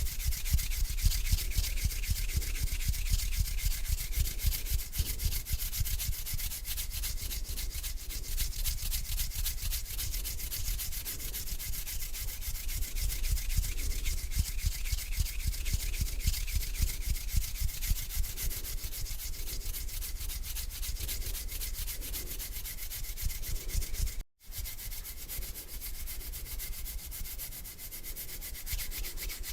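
Slow hand rubbing, palms sliding against each other in a steady, dry, hissing scrape, with a split-second break about 24 seconds in.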